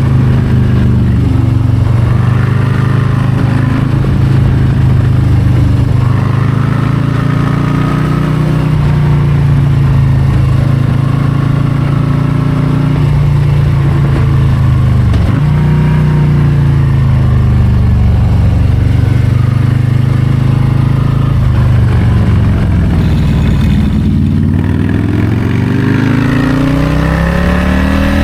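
Harley-Davidson Low Rider ST's Milwaukee-Eight 117 V-twin under way on a winding road. The engine pitch rises and falls repeatedly as the throttle opens and closes through the curves, with a deeper drop and a climb back up near the end.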